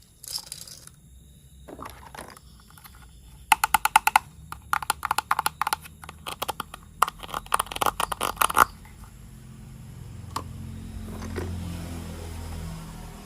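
Rapid clicks and rattles of hard plastic toy train parts being handled, dense for several seconds in the middle, followed by a low steady hum building near the end.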